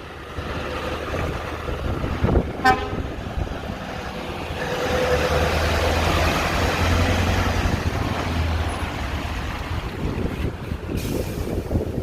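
A truck passing by, its engine and tyres swelling to a peak in the middle and then fading. There is a short horn toot about two and a half seconds in.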